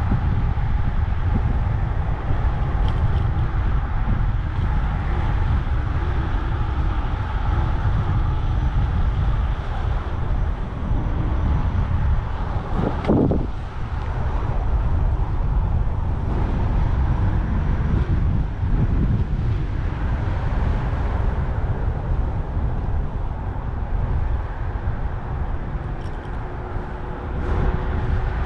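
Steady city traffic noise heard from a moving bicycle, with heavy low rumble from wind on the microphone; a vehicle passes close by about 13 seconds in.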